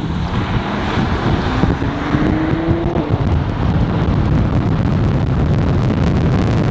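Car driving at speed with wind buffeting the microphone and road rumble, a faint engine note rising briefly about a second and a half in.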